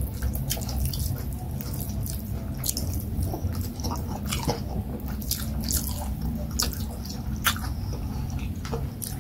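Close-miked wet chewing and mouth sounds of a person eating fufu and leafy vegetable soup by hand: frequent short, sharp wet clicks and smacks.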